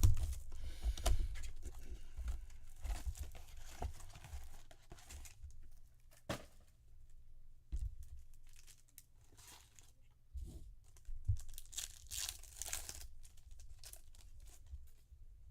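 Trading card packaging being torn open and crinkled by hand, with rustling spells and a few light knocks as the cards are handled.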